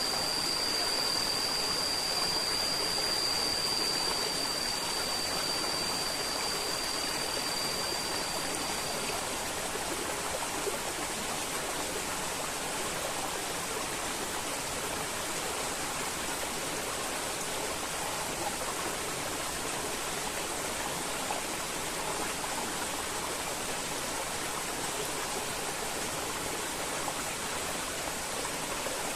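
River water flowing, a steady rushing wash. A steady high-pitched tone sounds over it and fades out about nine seconds in.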